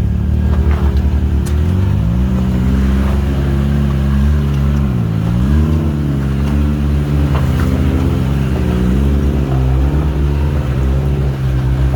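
Can-Am Maverick X3 side-by-side's engine running under load on a trail. It revs up about two seconds in, drops briefly around five seconds, then climbs again and rises and falls with the throttle.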